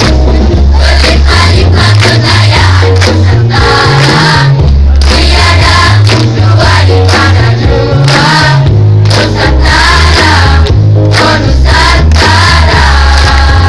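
Student choir singing in several voices over a loud, heavy bass line that moves in steps.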